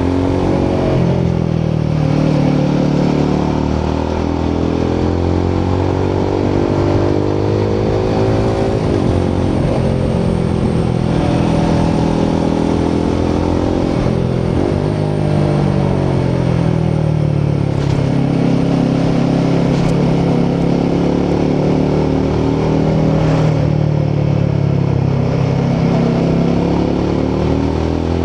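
Royal Enfield Himalayan 450's 452cc single-cylinder Sherpa engine running under way, its exhaust note rising and falling again and again as the rider rolls the throttle on and off and shifts gears.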